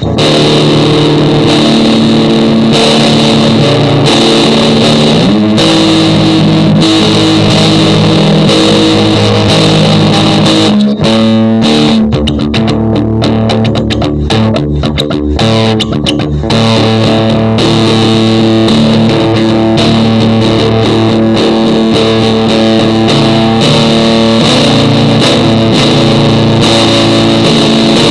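Distorted electric guitar music with effects, sustained chords shifting every few seconds, turning choppy and stuttering for a few seconds in the middle.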